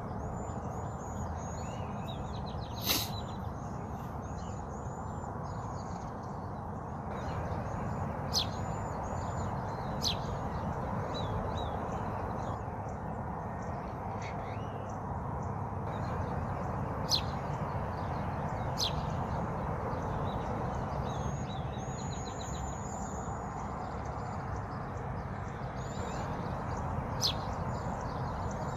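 Small birds chirping in quick, repeated high notes over a steady rushing background noise, with a handful of sharp, louder short calls, the loudest about three seconds in.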